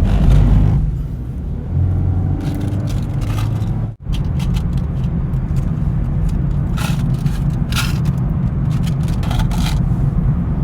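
Steady low road and engine rumble inside a moving car, broken by a brief dropout about four seconds in.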